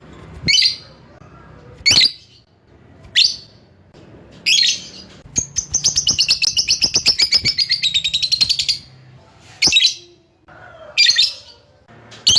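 Lovebird chattering: short shrill calls about once a second, then a long, rapid trill of fast repeated notes lasting about three seconds from the middle on. This is the lovebird's long 'ngekek' song, then more short calls near the end.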